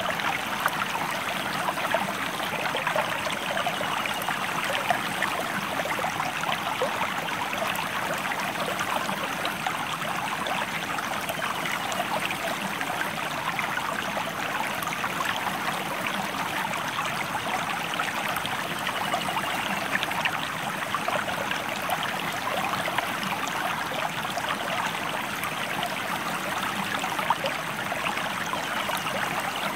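Stream water flowing: a steady rush with many small splashes and trickles.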